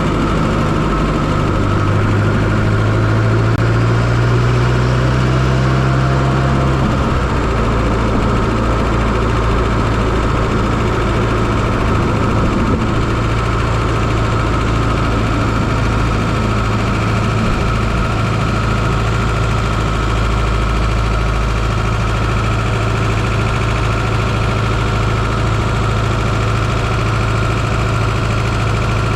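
1995 Fiat Coupé 2.0 16V turbo's four-cylinder engine running steadily, heard from inside the engine bay.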